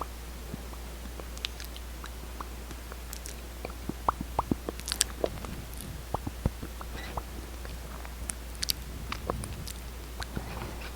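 Close-miked ASMR lip and mouth sounds: scattered wet clicks and pops of lips smacking, thickest about four to six seconds in, over a steady low hum.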